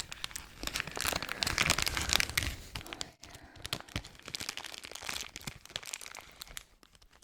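Packaging being crinkled and crackled by hand, a dense run of small crackles that is loudest a second or two in and then grows softer and sparser.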